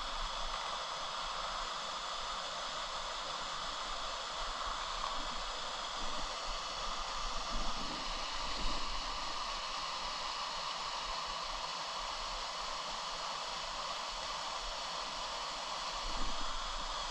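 Steady rush of white water in a mountain stream.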